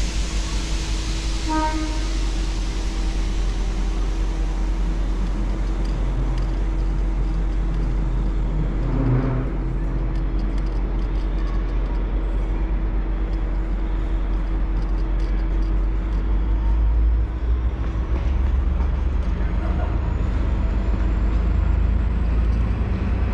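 V/Line N class diesel-electric locomotive, with its EMD two-stroke V12 engine, pulling out: a deep, steady engine rumble with a constant hum, getting louder from about two-thirds of the way in as it takes power, and a faint whine slowly rising in pitch as it picks up speed. A short pitched tone sounds about one and a half seconds in.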